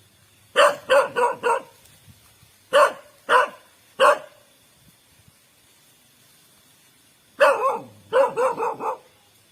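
A dog barking in bouts: a quick run of four barks, then three single barks a little over half a second apart, and after a pause of about three seconds a longer bark followed by a fast run of barks near the end.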